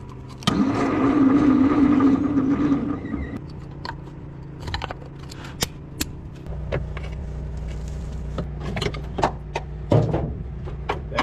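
A small electric motor whirs steadily for about three seconds, then stops. Scattered sharp clicks and knocks of tools on metal follow, with a low steady hum coming in about halfway through.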